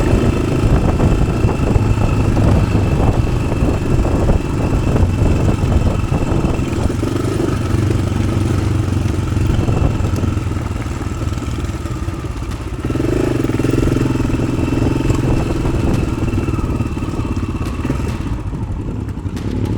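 Single-cylinder four-stroke engine of a 1993 Yamaha XT600 running steadily at low revs through an Arrow aftermarket exhaust, with many short knocks and rattles. The revs pick up briefly about thirteen seconds in.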